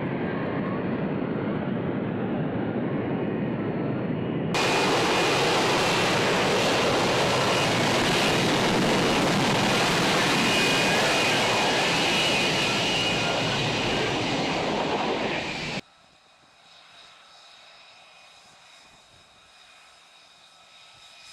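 Jet aircraft engine running with a loud roar and a high whine. It changes abruptly, as at edits between clips, a few seconds in, then drops suddenly to a much quieter background near the end.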